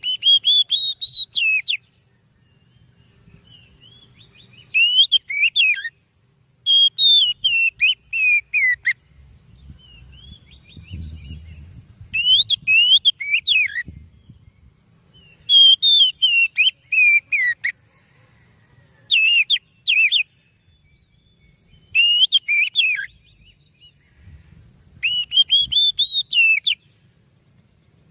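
Oriental magpie-robin singing: phrases of loud, sweeping whistled notes, each a second or two long, repeated about every two to three seconds with short pauses between.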